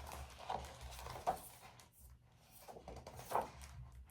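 Faint handling sounds, a few soft knocks and rustles, over a low steady hum.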